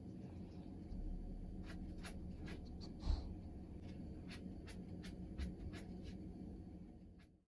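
Irregular light clicks and scratching over a low rumble, with a soft thump about three seconds in; the sound cuts off suddenly near the end.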